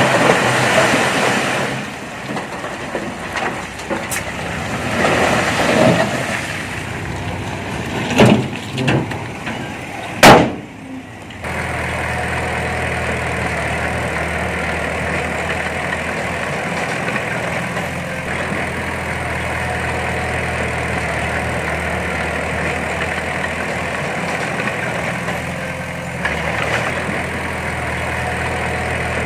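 Diesel engine of heavy earthmoving machinery running, with several sharp knocks over the first ten seconds, the loudest about ten seconds in. After a brief drop the engine settles into a steady low running drone.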